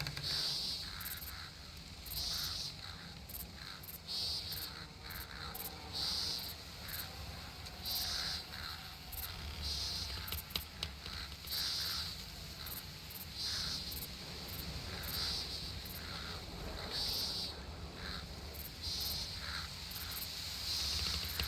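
Summer nature ambience: a short, high chirping call repeats about every two seconds over a steady low rumble.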